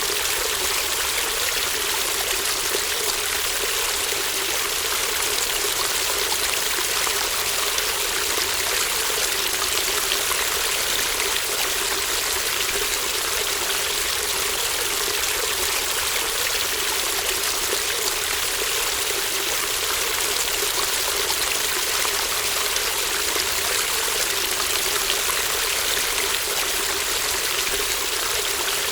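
A babbling brook: shallow water running steadily over stones with a constant trickling rush.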